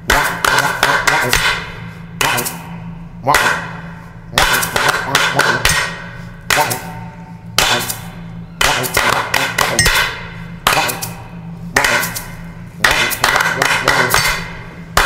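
Ukulele strummed in a steady rhythm, each group of chords struck with sharp, percussive strokes and returning about once a second.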